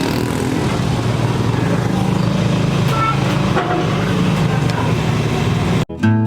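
A car engine runs steadily with a low hum, over general traffic noise and faint voices. Near the end it cuts off abruptly, and strummed acoustic guitar music starts.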